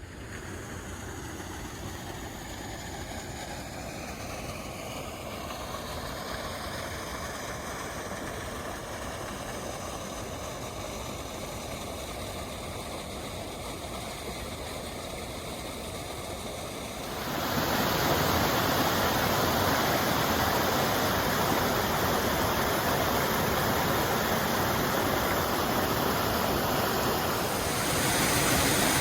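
Waterfall rushing steadily. It jumps louder a little past halfway and again near the end.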